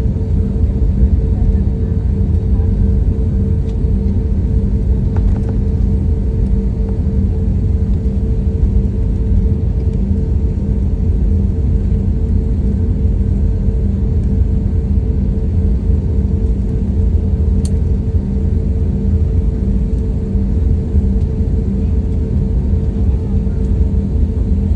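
Airliner cabin noise after landing: a steady low rumble of the engines and air system, with a constant hum over it, as the aircraft taxis.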